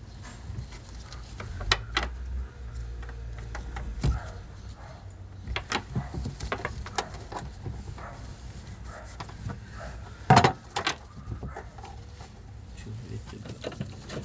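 Irregular clicks and knocks of hand work on a car's fuel pump module and its fittings, with one loud knock about ten seconds in.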